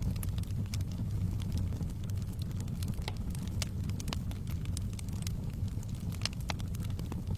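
Wood fire burning in a fireplace, a steady low rumble of flames with frequent sharp, irregular crackles and pops.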